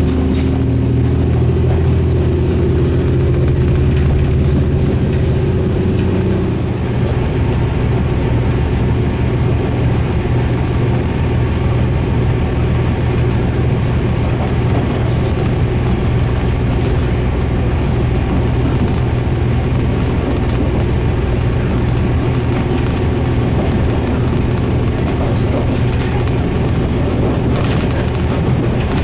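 Diesel railcar running, with steady engine tones that change and partly fall away about six seconds in, then a steady low drone over running noise.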